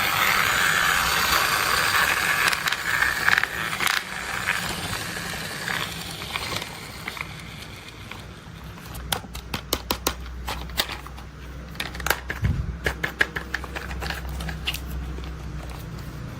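Plastic toy construction vehicles being handled: a scraping, rustling noise, then a run of quick sharp plastic clicks and rattles about halfway through.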